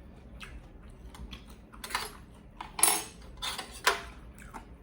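Cutlery and dishes clattering during a meal: four or five short, sharp clinks and scrapes, the loudest about three and four seconds in.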